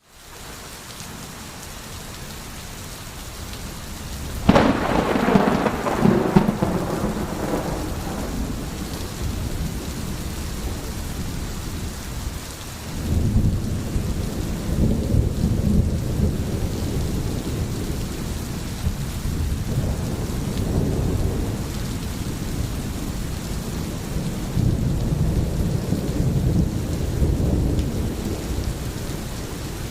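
Rain falling steadily during a thunderstorm. About four and a half seconds in there is a sharp clap of thunder that rolls off over a few seconds, and later there are two more low rumbles of thunder.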